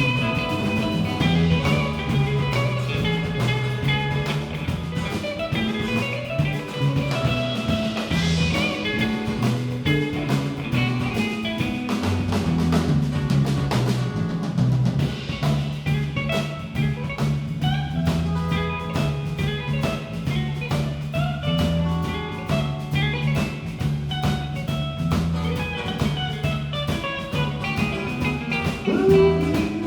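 Live band playing an instrumental passage: guitar over a walking bass line and a drum kit keeping a steady beat.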